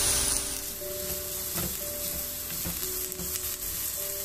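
Chopped onions and ginger-garlic paste sizzling steadily in hot ghee and oil in a nonstick wok. A wooden spatula stirs through them near the end, with a few soft taps against the pan.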